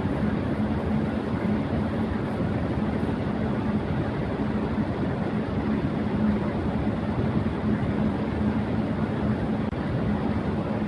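Electric fan running at high speed: a steady rush of air with a steady hum through it.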